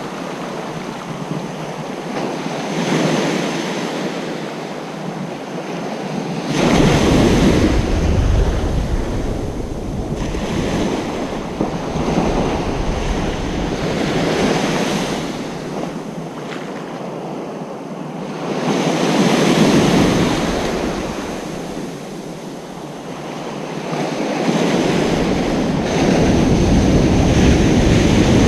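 Ocean surf breaking on a beach: waves swelling and fading every few seconds.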